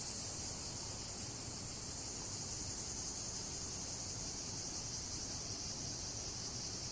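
Outdoor insect chorus: a steady, unbroken high-pitched trill of many insects.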